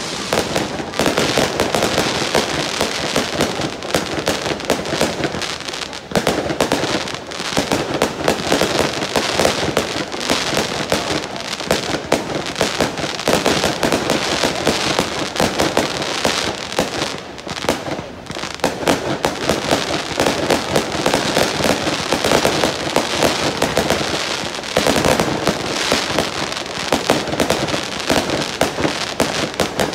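Fireworks display: a dense, continuous rapid crackling and popping of bursting shells that swells and eases slightly but never stops.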